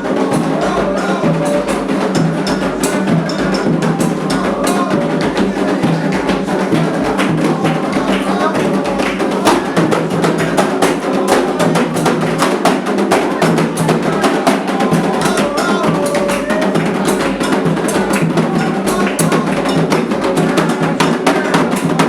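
Candomblé ritual music: continuous dense drumming with rapid, sharp strokes and voices singing over it.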